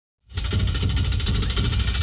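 Several motorcycle engines running together inside a globe-of-death cage, starting abruptly about a quarter second in as a dense, steady engine noise.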